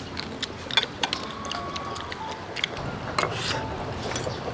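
Sounds of eating cooked blue crab: irregular small clicks and cracks of crab shell being broken and picked apart.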